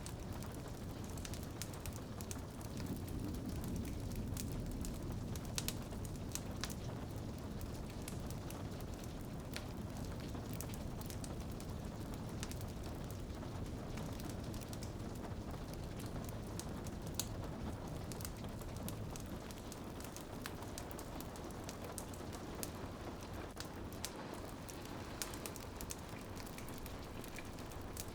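Steady rain pattering on a window, mixed with a wood fire crackling in a fireplace, with scattered sharp pops and snaps throughout.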